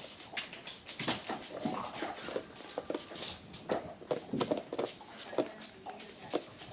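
A pet dog moving about and playing, with scattered light clicks and taps and short vocal noises throughout.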